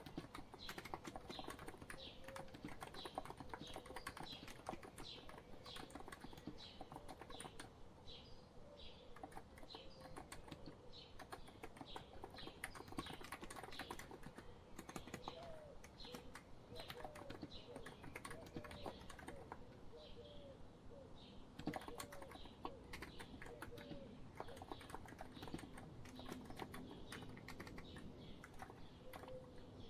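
Steady, fast typing on a COX Empress electro-capacitive keyboard, a dense run of soft key clicks. Birds chirp underneath, a quick string of repeated high chirps in the first half and a series of lower, shorter calls around the middle.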